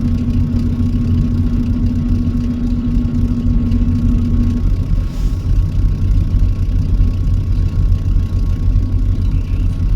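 Truck engine running steadily with a low drone. A steady hum over it cuts off about halfway through.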